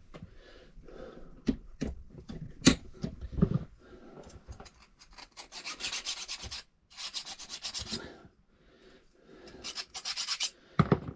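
Metal file rasping in groups of quick short strokes on a key blank, cutting the lever steps into the bit of a safe key, with a few sharp clicks and brief pauses between the groups.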